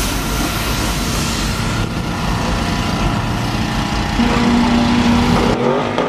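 A car engine running loudly amid a dense, steady hiss. A steady tone joins about four seconds in, and the deep rumble drops away near the end.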